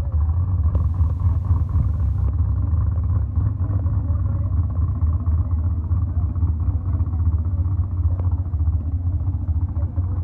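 Vehicle engine running with a steady deep rumble.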